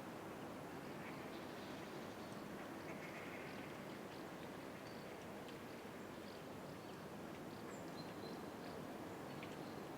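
Outdoor nature ambience: a steady, even hiss with scattered short, high bird chirps throughout.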